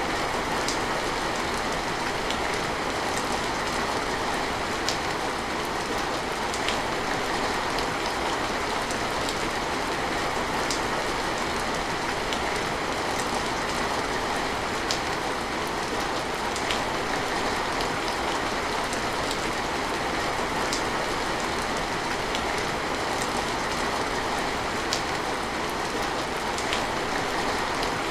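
Steady rain falling, a constant even hiss with scattered sharper drop ticks.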